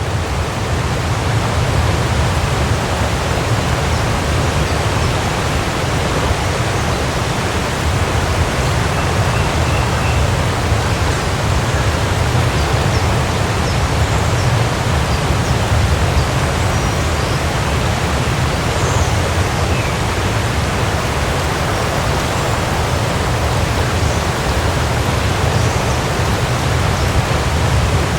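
Waterfall rushing steadily, a dense wash of falling water heaviest in its low rumble, with no change in level.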